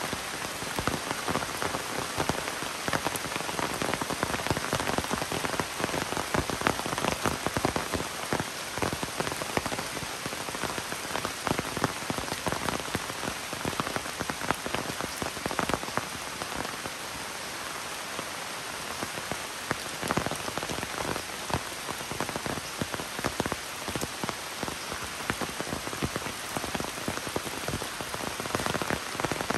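Steady rain falling on woodland foliage, with many separate drop hits heard throughout.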